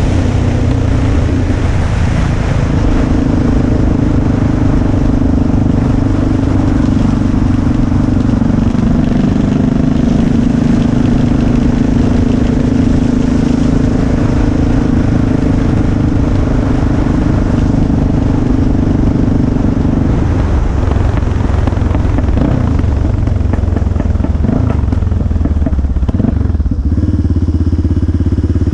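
Motorcycle engine running under way, holding a steady note for most of the stretch, then easing off and changing pitch about two-thirds through before settling to a lower note near the end, with a constant rush of wind noise.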